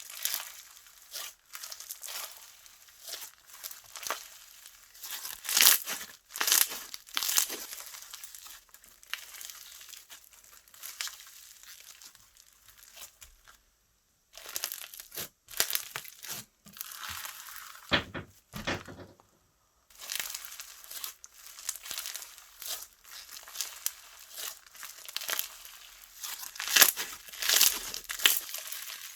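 Slime being squeezed, stretched and pressed by hand, crackling and popping in irregular bursts as air pockets burst. There are two brief silent breaks partway through.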